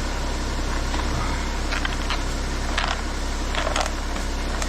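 BMW N57 3.0-litre straight-six diesel idling steadily, with a few short clicks or taps about two to four seconds in.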